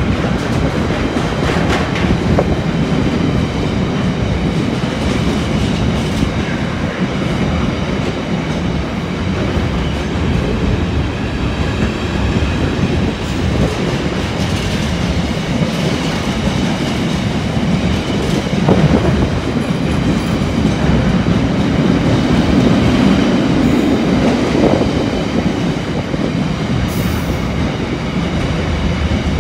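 Intermodal container freight train's wagons running past, with a steady rumble and clatter of steel wheels on the rails.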